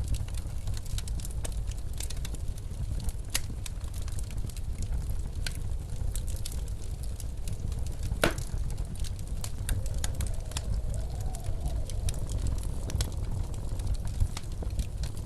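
Steady low rush of blizzard wind, with a wood fire crackling over it in scattered small pops and one louder crack about eight seconds in.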